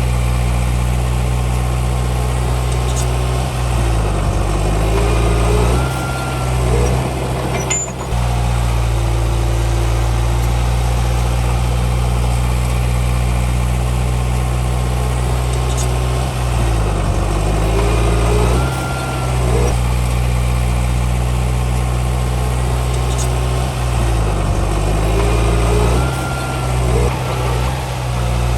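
Diesel engine of a Komatsu D31P crawler bulldozer running steadily, its pitch dipping and recovering three times as it loads up and eases off.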